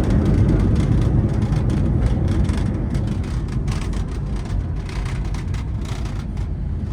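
Cabin noise inside an Airbus A320 on landing: a steady low rumble of engines and airflow that slowly grows quieter, with faint light rattles.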